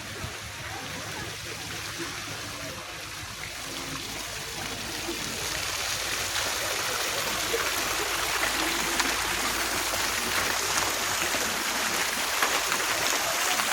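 Steady rushing, trickling water, a hiss that builds over the first several seconds and then holds.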